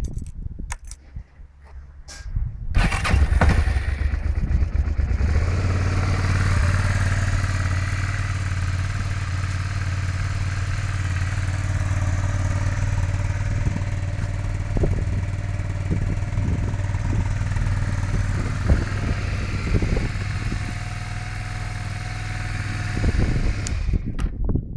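2000 Suzuki SV650 N's V-twin engine through its stock exhaust: after a few clicks it starts about two and a half seconds in and idles steadily. It cuts off near the end.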